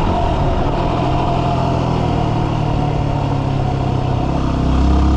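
Dual-sport motorcycle engine running steadily while riding. Near the end the engine note drops lower and gets a little louder.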